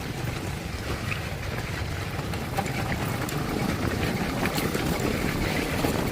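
Motorcycle engine running steadily while riding, a low pulsing exhaust note.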